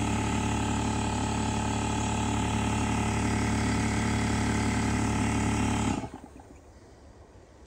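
A motor running at a steady speed, then shut off about six seconds in, cutting out suddenly.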